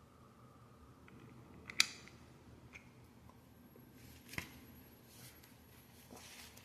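Lego pieces being handled and pressed together: a few sharp plastic clicks, the loudest about two seconds in and another about four seconds in, with smaller ticks and light rustling.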